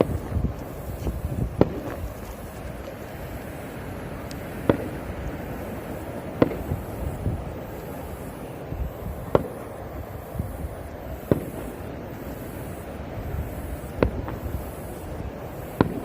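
Fireworks going off: about seven sharp single bangs at irregular intervals of roughly two to three seconds, over a steady low rushing background.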